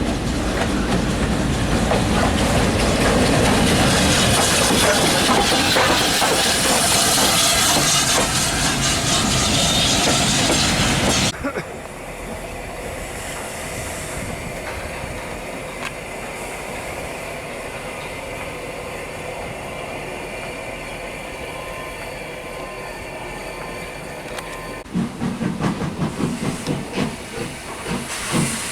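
Steam train passing loudly with a rumble and wheel clatter, cutting off suddenly about eleven seconds in. A steady hiss of steam from the locomotive follows, and near the end a string of rapid, uneven loud beats.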